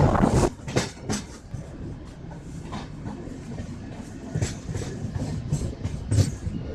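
A train running on its track, heard from on board: a loud rush cuts off sharply about half a second in, leaving a quieter low rumble with a few scattered clicks and knocks.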